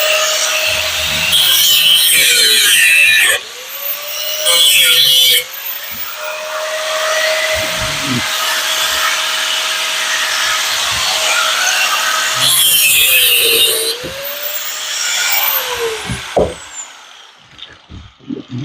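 Handheld electric power tool cutting metal: the motor is triggered several times, spinning up to a steady whine, running under load with a loud harsh cutting noise, then winding down. It winds down for the last time near the end, and a few knocks follow.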